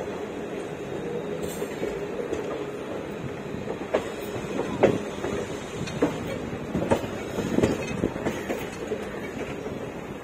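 Passenger train running, heard from inside the coach: a steady rumble and hum. From about four seconds in, a series of sharp clacks and knocks comes from the wheels running over the track.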